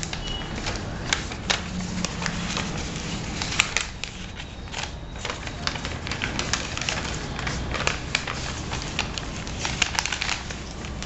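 A sheet of paper being folded and creased by hand: irregular crinkles and sharp paper clicks over a steady low background noise.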